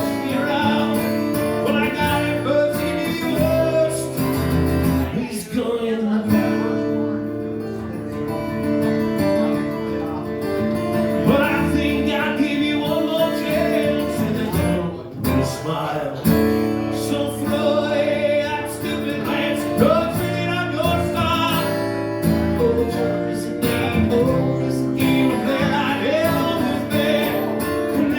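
Live music: a strummed acoustic guitar with a man singing over it.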